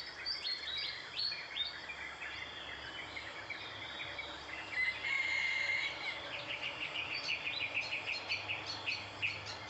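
Birds chirping and calling, many short notes overlapping, with one held whistled note about five seconds in and a quick run of repeated notes after it.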